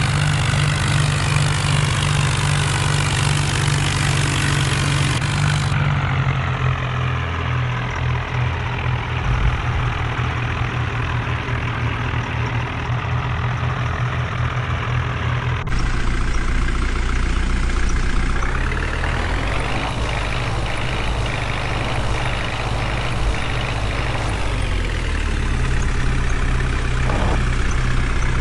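Heavy tractor diesel engines running hard, straining to pull an overloaded trolley that is stuck. The sound changes abruptly about halfway through, and a few seconds later an engine revs up.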